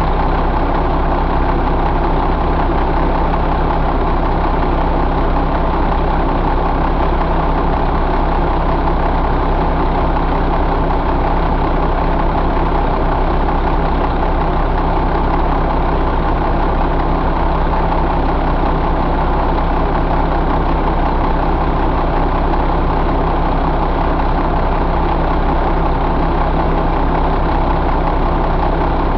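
2005 Mack E7 inline-six diesel engine idling steadily at an even speed.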